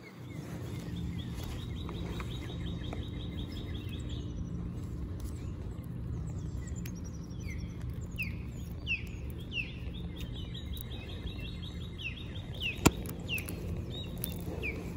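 A bird singing outdoors: a rapid high trill, then a run of short down-slurred whistles, then the trill again, over a steady low background hum. A single sharp click near the end.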